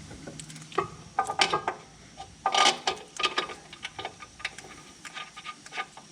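Small metal parts clicking and clinking as a new rear sway bar link, its washer and nuts are handled during fitting: scattered sharp clicks, the loudest about a second and a half and two and a half seconds in.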